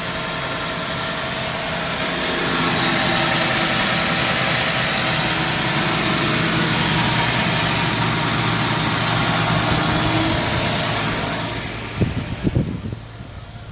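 Engine idling steadily, getting a little louder about two seconds in. Near the end it dies away, with a few knocks.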